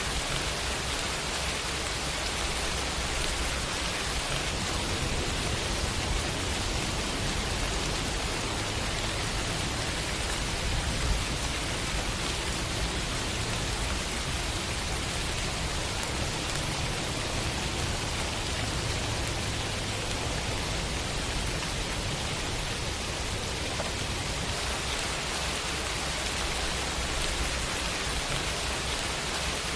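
Steady heavy rain falling, an even hiss with a low rumble underneath and one brief louder tap about eleven seconds in.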